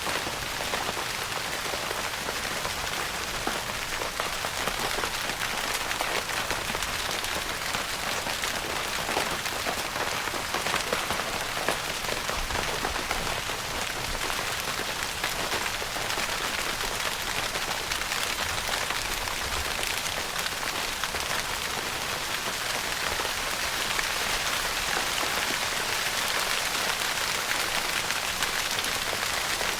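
Steady rain pattering on a tent roof: a dense, even hiss of many small drop ticks.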